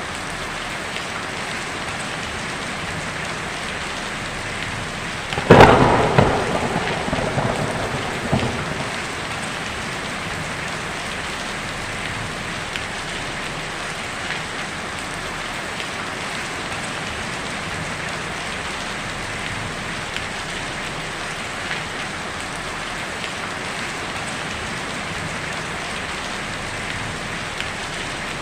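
Steady heavy rain drumming on a tin roof, with one sharp, loud thunderclap about five seconds in that rumbles away over a few seconds.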